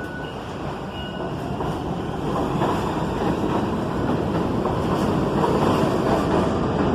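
New York City Subway G train running along the track, its rumble growing steadily louder as it comes closer.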